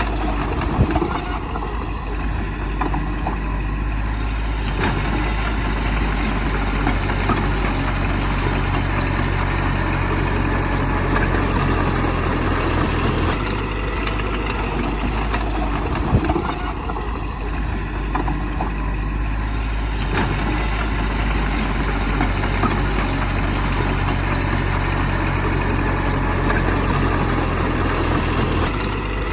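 Heavy diesel engine of a bulldozer running steadily while working, with short knocks about a second in and again about halfway through. The engine note drops and comes back on a cycle of about fifteen seconds.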